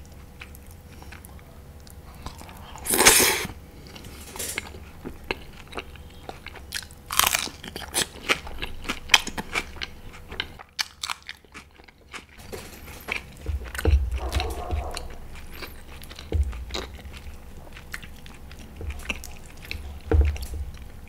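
Close-miked eating: chewing and biting mouthfuls of naan with curry, many short wet clicks, with a few louder bites.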